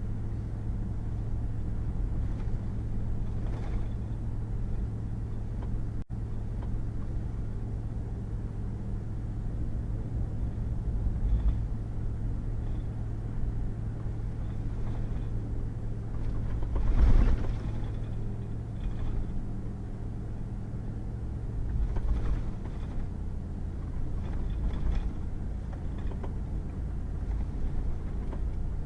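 A pickup truck driving on a wet, muddy road: a steady low engine drone with tyre and road noise, and a few thumps from bumps, the loudest about two-thirds of the way through. The engine note drops slightly a little later.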